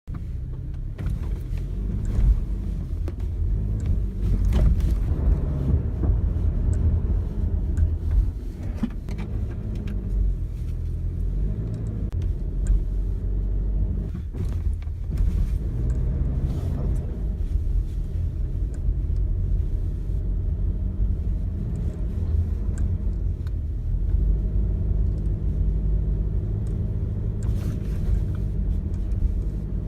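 Cabin noise inside a moving Toyota Innova Touring Sport with a petrol engine and automatic gearbox: a steady low engine and road rumble whose pitch slowly rises and falls with speed, with scattered faint clicks and knocks.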